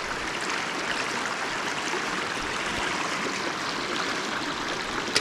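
River water rushing over rocks in rapids, a steady even rush.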